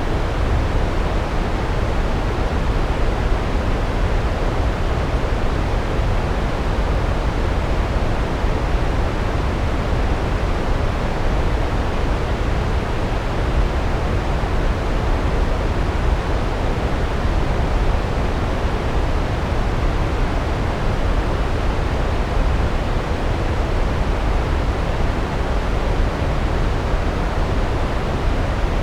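Large waterfall: water plunging and cascading down rocks, a steady, deep rushing roar with no change in level.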